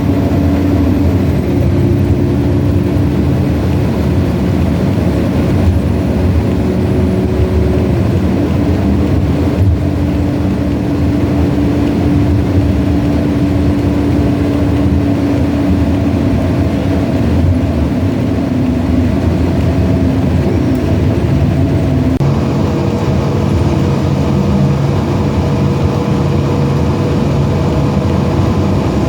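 Inside a moving bus: steady engine and road rumble with a droning hum, whose pitch shifts suddenly about three quarters of the way through.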